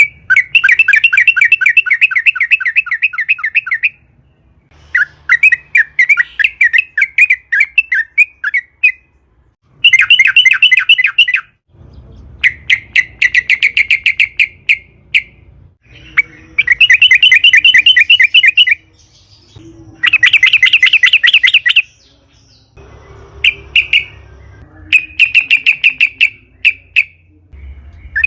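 Yellow-vented bulbul (trucukan) singing. It gives about ten bursts of loud, fast, bubbling chatter, each a second or three long, with short pauses between.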